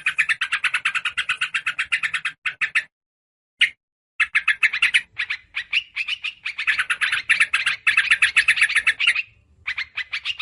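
Fast scolding chatter of a yellow-vented bulbul, sharp notes repeated about ten a second in long runs, broken by a pause of about a second and a half about three seconds in and a shorter lull near the end.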